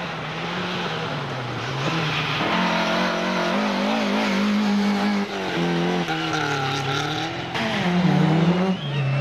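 Racing car engine revving, its pitch rising and falling repeatedly as the throttle is worked, growing louder about two seconds in.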